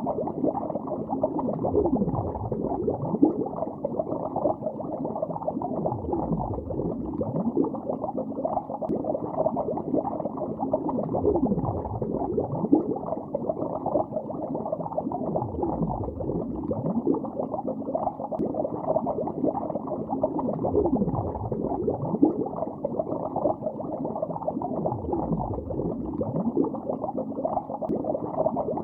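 Continuous underwater bubbling: a dense stream of bubbles, muffled, with nothing in the upper treble. A slow sweeping swell recurs about every five seconds.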